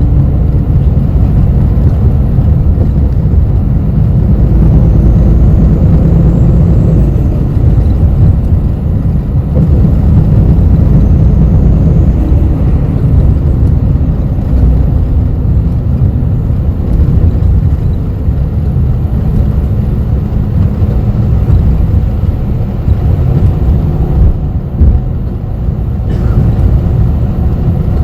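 Inside a city bus on the move: a steady low rumble of engine and road, with faint whining tones that rise and fall as the bus changes speed. A short knock comes near the end.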